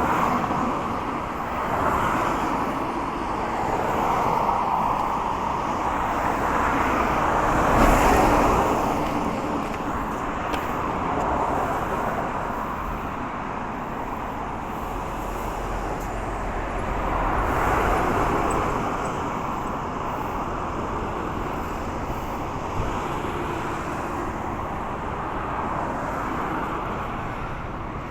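Road traffic passing on a city street: vehicles swell up and fade away in turn, the loudest going by about eight seconds in and another about seventeen seconds in.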